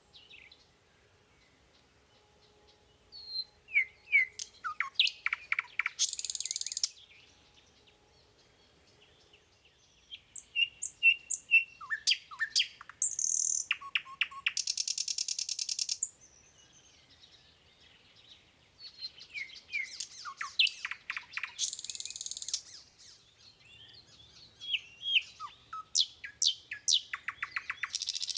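A bird singing: bouts of quick chirps, falling whistled notes and trills, each ending in a harsh rasping call, repeated four times with short pauses between.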